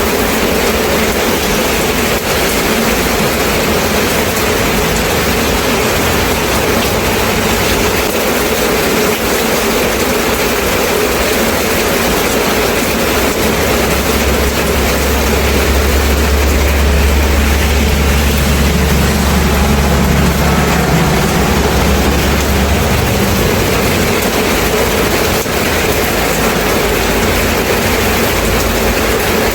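Steady, heavy-sounding rain hiss. About halfway through, a deep low rumble joins it for roughly ten seconds and then fades out.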